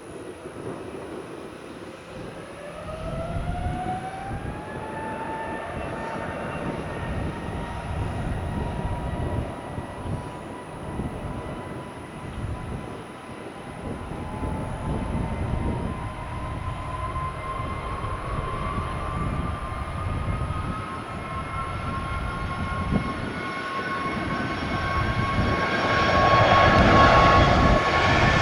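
Jet aircraft engines spooling up, with a whine that rises in pitch about three seconds in and again from the middle on, growing louder near the end as thrust builds.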